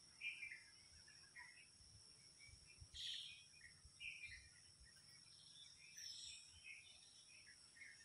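Faint outdoor ambience of scattered short bird chirps, the loudest about three seconds in, over a steady high-pitched whine.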